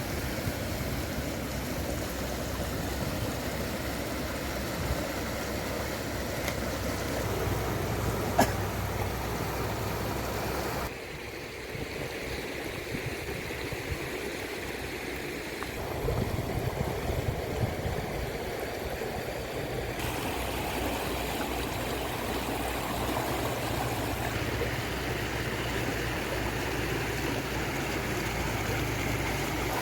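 Water rushing over a small waterfall as a steady, even roar. Its level and tone change abruptly several times, with a sharp click about eight seconds in.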